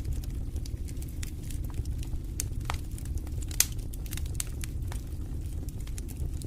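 Wood fire burning in a fireplace: a steady low rumble of flames with frequent irregular crackles and pops, the sharpest pop about three and a half seconds in.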